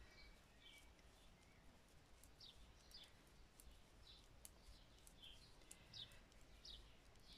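Near silence, with faint birds chirping in the background, short chirps a few times a second, and faint light ticks of metal knitting needles.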